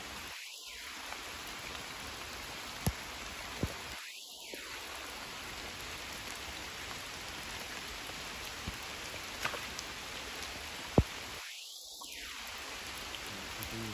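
Steady rain falling on water and wet vegetation, an even hiss, with a few sharp ticks, the loudest about eleven seconds in.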